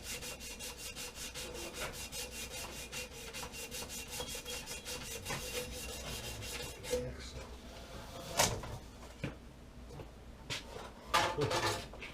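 Quick, even back-and-forth rasping strokes of a hand tool, about four or five a second, for some seven seconds before they stop. After them come a few separate knocks, the loudest about eight seconds in.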